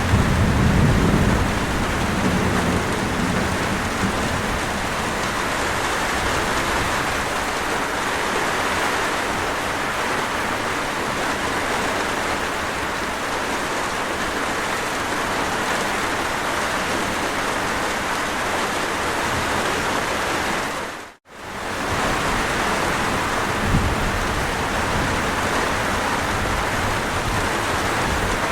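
Steady rain falling, with a low thunder rumble dying away in the first couple of seconds. The sound cuts out completely for an instant about three-quarters of the way through, then the rain resumes.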